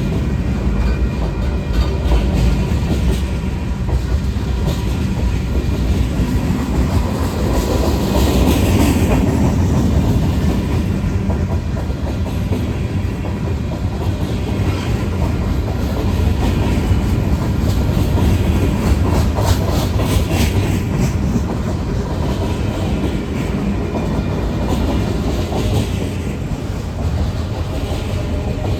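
Freight train cars rolling past on the track, a steady heavy rumble with the repeated clickety-clack of wheels over rail joints.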